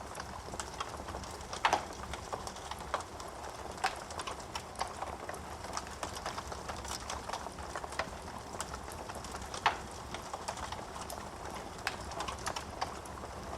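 Wood fire crackling in a fireplace: a steady run of small snaps and pops over a soft hiss, with two louder pops, one about two seconds in and one about ten seconds in.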